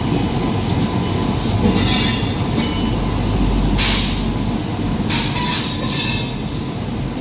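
A train running on the rails with a steady rumble, its wheels squealing in several short high-pitched bursts, the loudest about four seconds in.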